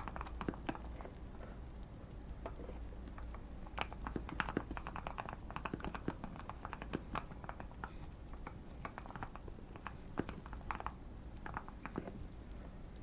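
Typing on a tape- and foam-modded Keychron Q1 mechanical keyboard: irregular bursts of keystroke clicks with short pauses between, over a light fire crackle.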